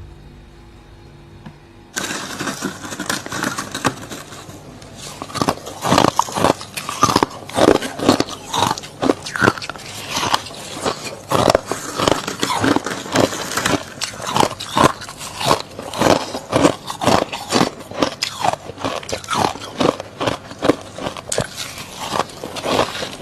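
Freezer frost being bitten and chewed close to the microphone: a run of crisp crunches and crackles, about one or two bites a second. It starts about two seconds in, after a short quiet stretch.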